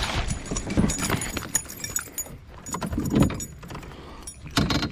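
Fishing gear being handled: irregular knocks and clatter with light metallic jingling, the loudest knock about three seconds in and a quick cluster near the end.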